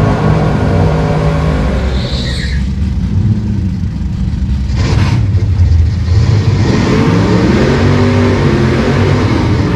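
V8 drag cars doing burnouts: engines revving hard against spinning rear tyres, with a brief high-pitched squeal about two seconds in and a sharp crack near the middle. Engine pitch rises and falls over the last few seconds.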